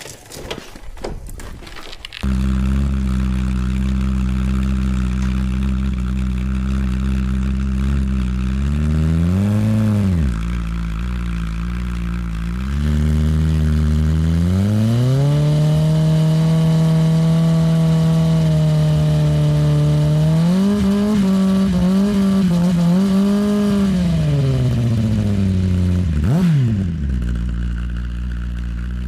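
Kawasaki ZX-10R's inline-four engine revving in a burnout on ice, the rear tyre spinning freely. After a couple of seconds of clatter the engine comes in loud, and its revs rise and fall several times and hold high for several seconds. Near the end it gives one quick rev and drops back to idle.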